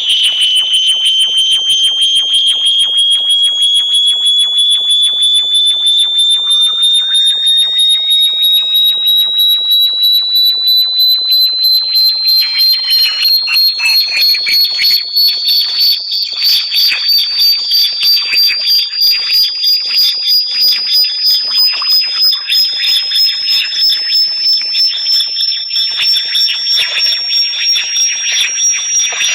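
Synthetic high-pitched electronic tone sold as a bat-repellent sound. It pulses a few times a second, and its pitch slowly rises with fainter gliding tones around it.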